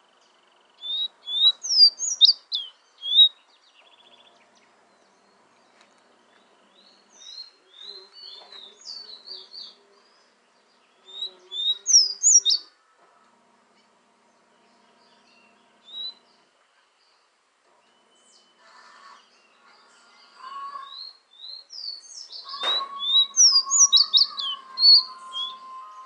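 A fire red bird singing in repeated bursts of quick, high, down-slurred whistled notes, with pauses of a few seconds between the phrases.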